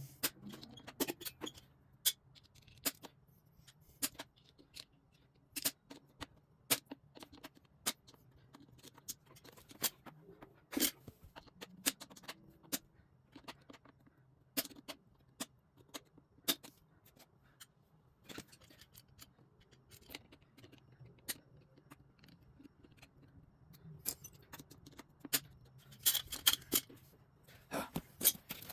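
Scattered metallic clicks, taps and light scraping of hand tools and small metal parts being handled during a motorcycle engine teardown, with a thicker run of clicks and jingling near the end, over a faint steady low hum.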